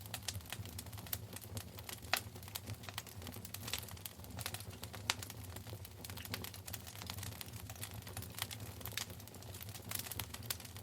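Wood fire in a fireplace crackling: irregular sharp pops and snaps over a steady low rumble, with louder snaps about two seconds and five seconds in.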